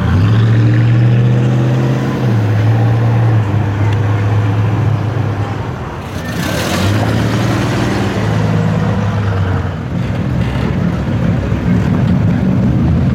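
V8 muscle car engines running at low revs in slow cruising traffic, their note stepping up and down as the cars pull along. A brief hissing rush of noise comes about six and a half seconds in.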